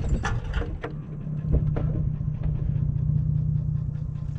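Chrysler 300C engine idling steadily, with a few clicks in the first couple of seconds. It is running after its radiator was pulled clear of the engine pulleys.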